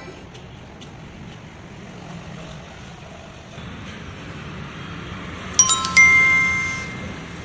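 Two sharp metallic strikes, about half a second apart, each ringing with a bell-like tone that fades over about a second, over a low steady background noise.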